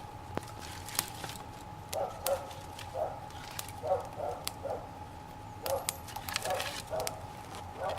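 A dog barking repeatedly in short runs of two or three barks, starting about two seconds in, over scattered sharp crackling clicks from a small fire that is just catching.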